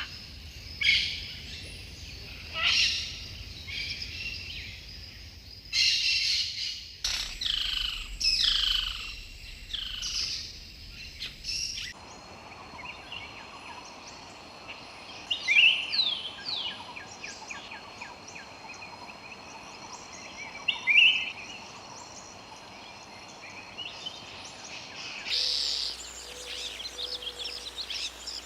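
Jungle ambience of many birds calling and chirping, some loud call phrases standing out at intervals. A steady high hum runs under them through the middle stretch. The background changes abruptly about 12 and 25 seconds in, as different recordings are spliced together.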